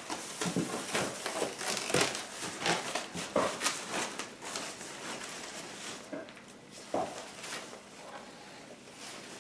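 Packaging crinkling and rustling as it is handled, in many short crackly strokes that thin out after the first half, with a sharp knock about seven seconds in.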